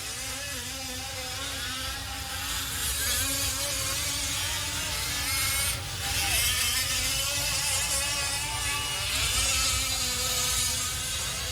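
Fifth-scale RC off-road trucks' small two-stroke petrol engines running on the track, their pitch wavering up and down as the throttles open and close. The engine sound dips briefly about halfway through.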